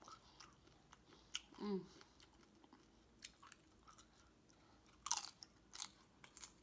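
Close-miked eating sounds: scattered wet mouth clicks and smacks of chewing, with a brief hummed 'mm' about a second and a half in and a cluster of sharper smacks about five seconds in.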